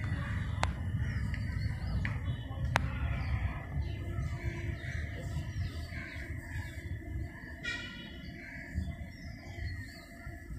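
Birds chirping outdoors over a steady low rumble, with two sharp clicks in the first three seconds.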